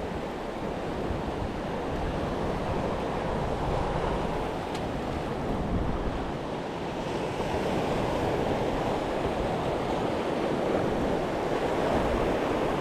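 Ocean waves washing on the shoreline, a steady wash that swells and eases, with some wind on the microphone.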